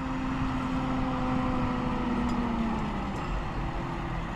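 Tractor engine running close by as it pulls in to park, its pitch dropping slightly as it throttles back a little over halfway through.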